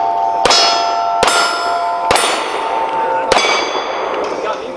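Pistol shots at steel targets: four shots about a second apart, each followed by the ring of a struck steel plate. The last ring fades out near the end.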